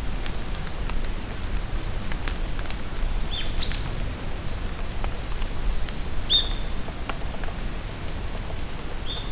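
Steady rain falling in a forest, with sharp drips and scattered bird calls: short high chirps throughout, a rising whistle about four seconds in and another chirp a little past six seconds.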